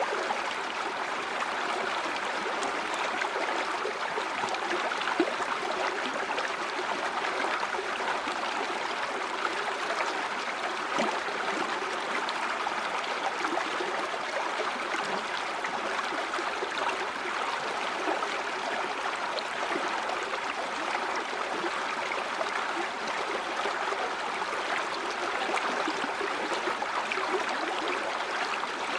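River water flowing steadily over stones, a continuous babbling and gurgling.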